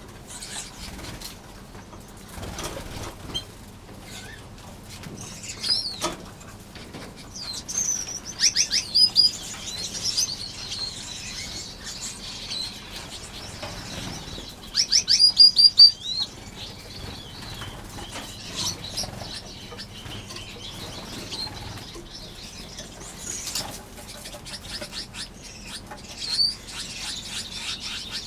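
A flock of aviary finches chirping and calling, with quick runs of high notes, the loudest about halfway through, over the fluttering of many small wings.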